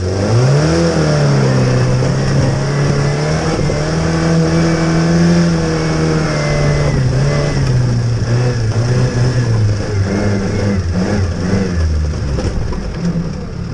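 1928 Austin 7's four-cylinder side-valve engine pulling the car up a muddy trials section. The revs rise about half a second in, hold steady through the climb, then drop back around ten seconds in.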